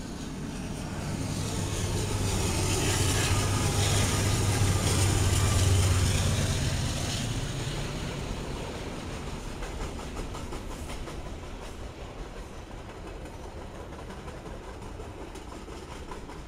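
A train passing: the locomotive's engine rumble and rail noise build to their loudest about five or six seconds in, then fade as the cars roll by with repeated clicking of wheels over the rails.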